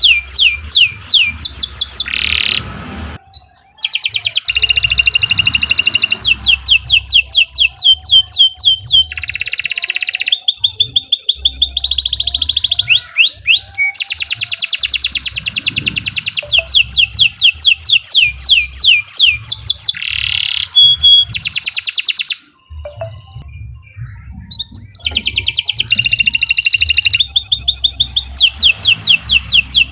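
Domestic canary singing long, fast trills of rapidly repeated sliding notes, changing from one trill type to the next. The song breaks off briefly about three seconds in, and again for about two seconds later on.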